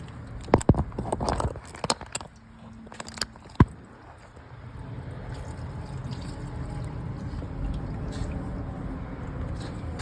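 Metal tool clinks and knocks as an oil-filter wrench is fitted onto a tight oil filter, a handful of sharp clicks over the first few seconds, the loudest about three and a half seconds in. After that comes a steady low rushing noise.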